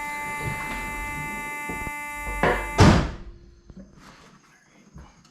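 Sustained musical tones, then a loud heavy thunk just under three seconds in, at which they stop. Faint knocks follow.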